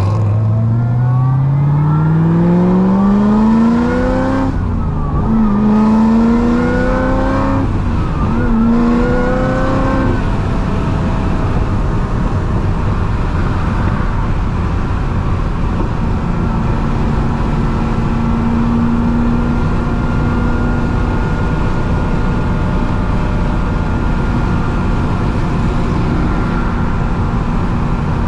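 Corvette C6 ZR1's supercharged V8 (Kong 2650 blower) accelerating hard, its pitch climbing through the gears with quick upshifts about four and a half and seven and a half seconds in. About ten seconds in it backs off to a steady cruise with a high, steady whine over road and wind noise.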